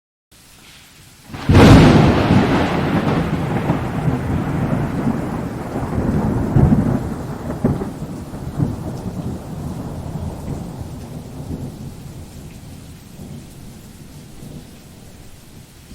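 A thunderclap: a sudden loud crack about a second and a half in, then a long low rolling rumble with a few further swells that slowly fades away.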